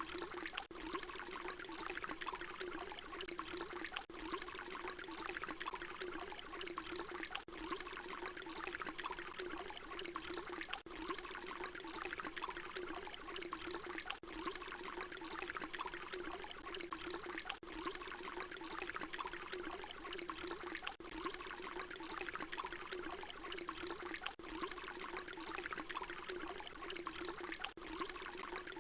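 Water pouring steadily, a short recording looped so that a brief dip recurs about every three and a half seconds.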